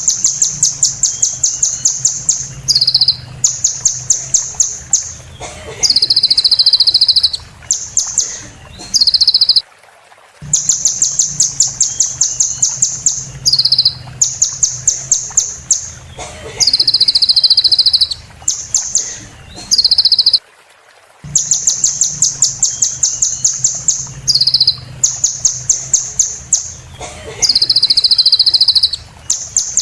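Sunbird song: rapid, high-pitched ticking trills broken by short buzzy notes. The same sequence of about ten seconds repeats about three times, with brief pauses between, over a low steady hum.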